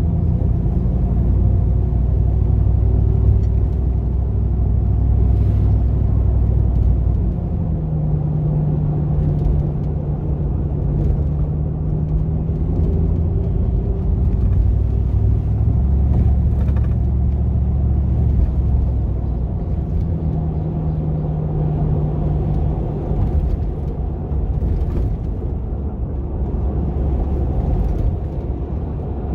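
GMC Vandura / Chevy G20 van's V8 engine running under way, a steady low rumble whose pitch holds for a few seconds at a time and then shifts as the throttle and speed change.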